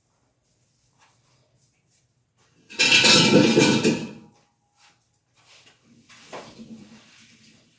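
A loud scraping clatter with a metallic ring, lasting about a second and a half near the middle, as things are moved around during kitchen cleaning, followed by fainter knocks and rattles.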